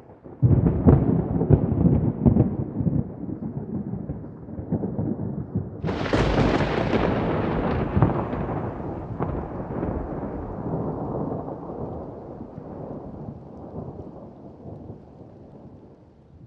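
Thunder: a sudden crackling peal about half a second in, then a second, sharper clap about six seconds in that rolls off into a slowly fading rumble.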